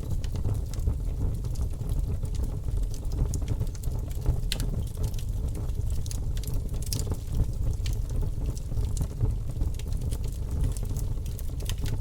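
Wood fire in a fireplace burning, with a steady low rumble and frequent sharp crackles and pops scattered throughout.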